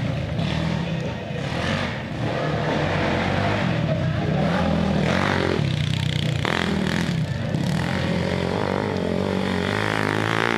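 Quad bike engine running steadily, its pitch wavering slightly as it is ridden.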